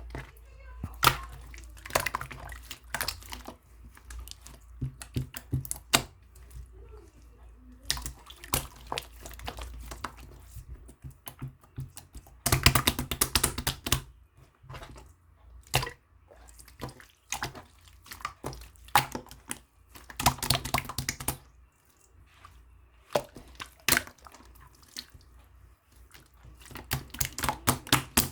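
Hands squishing and pressing slime, making irregular wet clicks and pops that come in clusters with quieter stretches between.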